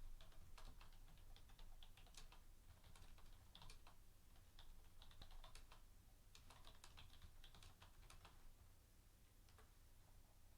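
Faint typing on a computer keyboard: irregular quick key clicks, thinning out over the last couple of seconds, over a low steady hum.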